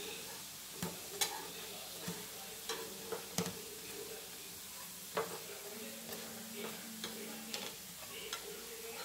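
Chana dal fritters sizzling steadily in shallow oil on a nonstick griddle, while a flat spatula scrapes and taps against the pan about a dozen times at irregular moments as the fritters are flipped.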